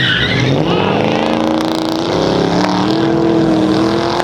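A car engine accelerating, its pitch climbing steadily over about three seconds. A brief high squeal is heard at the very start.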